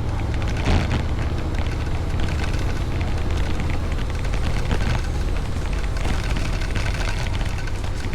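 Wind rushing and buffeting over the microphone while riding a Honda Forza 750 motorcycle, a steady loud noise with a deep rumble underneath.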